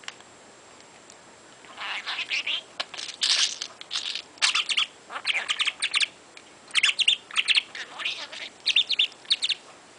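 Pet budgerigar (parakeet) chirping and warbling in quick runs of short, high notes, starting a couple of seconds in and going on almost to the end.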